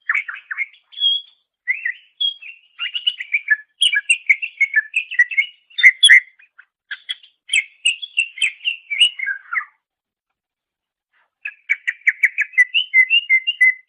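Cucak ijo (greater green leafbird) singing: rapid runs of varied chirps and whistled notes, breaking off about ten seconds in and starting again a second and a half later.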